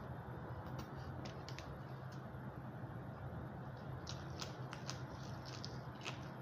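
Mouth sounds of biting and chewing crisp raw green onion leaves close to the microphone: a scatter of small crunchy clicks, coming thick and fast about four seconds in. A steady low hum runs underneath.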